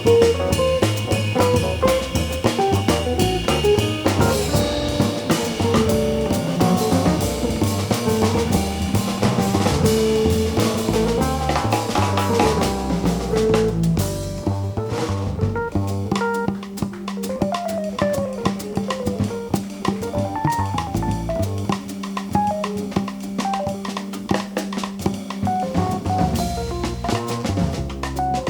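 Live jazz combo playing, with the drum kit prominent: busy cymbal and snare work through the first half, thinning out about halfway. After that a long held low note sits under a winding melodic line.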